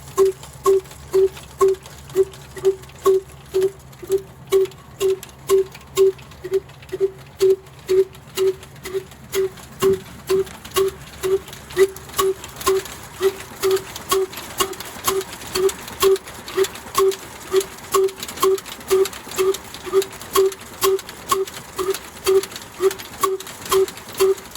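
Slow old single-cylinder diesel 'black engine' running, its exhaust beating evenly at about two pops a second. About ten seconds in, a low hum underneath drops away and a sharp click comes with each beat.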